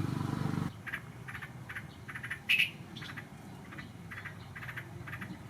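A bird chirps repeatedly in short, high notes, about three a second, with one louder chirp around halfway. A low, steady buzzing sound cuts off abruptly just under a second in.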